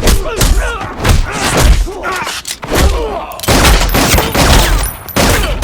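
Action-film fight sound effects: rapid volleys of gunshots mixed with heavy thuds, hit after hit with barely a pause.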